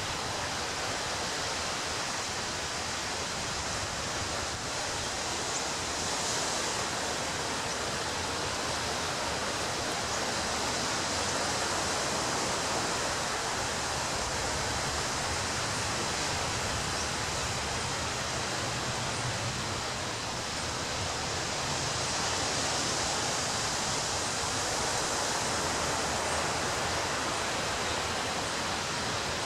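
Ocean surf breaking on a beach: a continuous wash of waves that swells and eases slowly, with no single sharp crash standing out.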